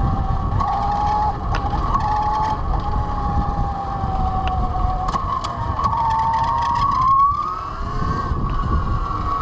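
Velimotors VMX12-F 12 kW electric motorcycle running under way: its motor gives a steady whine that drifts in pitch with speed and climbs about seven seconds in, over wind and road rumble.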